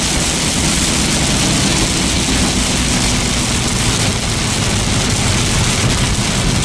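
Heavy rain falling on a moving car's windshield and roof, heard from inside the cabin as a steady hiss over the rumble of tyres and engine.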